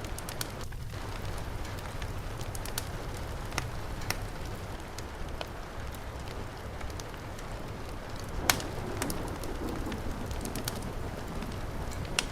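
Steady heavy rain with a low rumble, broken by sharp crackles and pops from a wood fire, the loudest about two-thirds of the way through. Around the same point a bird gives low cooing calls a few times.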